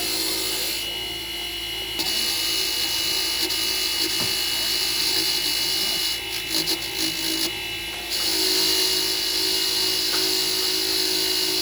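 A small electric power tool running with a steady high whine and hiss. It eases off twice, briefly about a second in and again for a couple of seconds past the middle.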